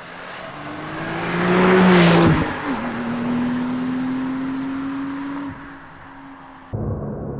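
Porsche 992.2 Carrera T's twin-turbo flat-six passing by: it grows louder as it approaches, peaks about two seconds in, drops sharply in pitch as it passes, then holds a steady note as it pulls away.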